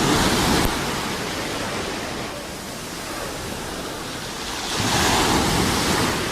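Sea waves washing ashore: a steady rushing noise that swells at the start and again about five seconds in.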